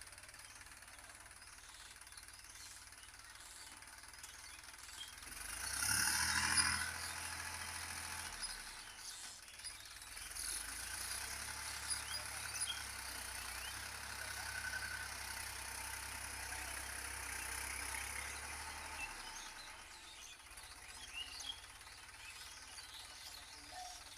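Sonalika diesel tractor engine running steadily as it works the field. It grows loudest about six seconds in, holds steady, then drops away near the end.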